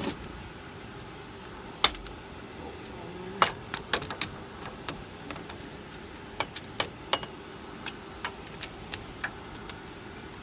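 Metal hand tools clinking and knocking against the steel airbag mount and chassis underneath the bus: about a dozen sharp, irregular taps, some with a brief metallic ring, the loudest about two and three and a half seconds in and a quick cluster near the middle.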